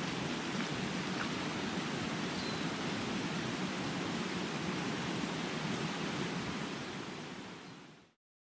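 Steady, even outdoor noise, fading out shortly before the end.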